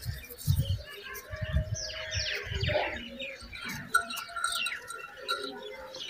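Birds chirping, several quick high calls falling steeply in pitch, over a few low thumps in the first few seconds.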